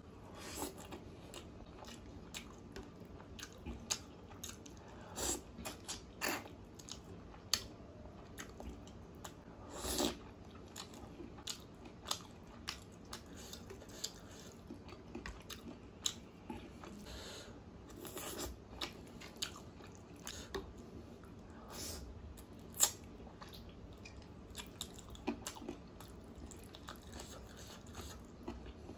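Close-miked chewing and biting of mouthfuls of chicken curry and rice: wet mouth sounds with many scattered short clicks and crunches, the loudest about 23 seconds in.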